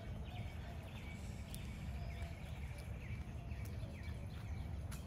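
Birds chirping, many short downward-slurred calls coming one after another, over a steady low rumble of outdoor background noise.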